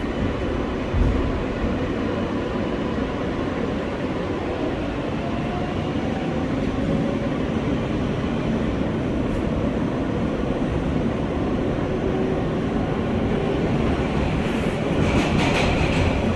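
R143 subway car running between stations, heard from inside the car: a steady rumble of wheels on rail, with sharper clatter about a second before the end.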